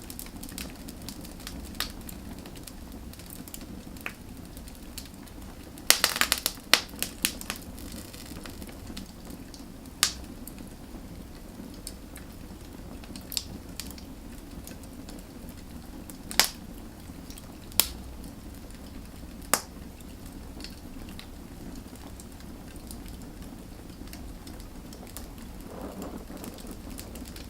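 Firewood burning with a steady low hiss and scattered sharp crackles and pops, a quick cluster of pops about six seconds in and a few loud single snaps later on.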